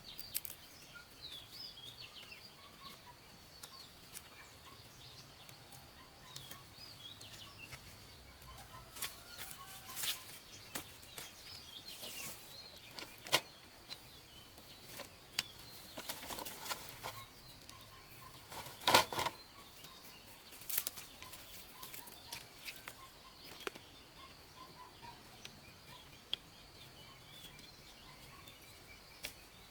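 Scattered rustling and sharp knocks, the loudest a little past halfway, over faint bird chirps and a steady high-pitched hum.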